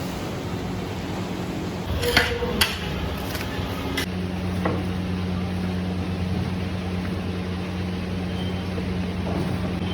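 Metal utensils clanking against a metal cooking pot: a cluster of sharp clanks about two seconds in and another around four seconds, over a steady low hum.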